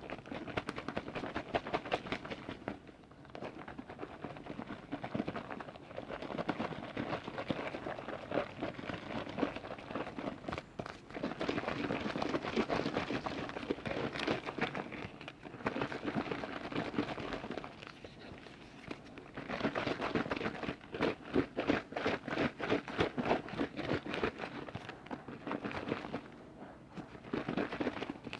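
Close-miked liquid sounds: a dense crackling of small wet clicks and splashes that comes in waves of several seconds, with brief lulls between them.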